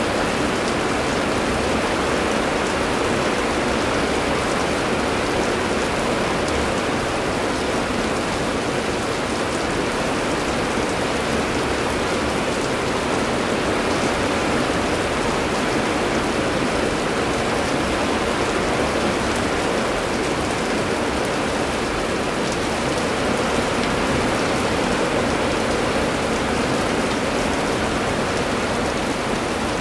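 Heavy rain falling steadily, an even, continuous hiss of rain on surfaces.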